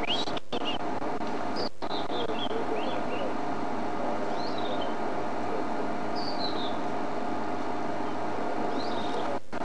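A robin singing short phrases of clear, high whistled notes, several of them falling in pitch, a phrase every second or so, over a steady low hum.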